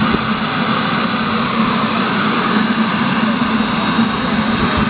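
The twin model jet turbine engines of a quarter-scale RC A-10 Warthog running steadily: an even rushing hiss over a steady low hum.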